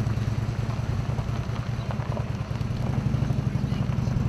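Tractor engine idling close by: a deep, steady low rumble with a fast, even firing pulse.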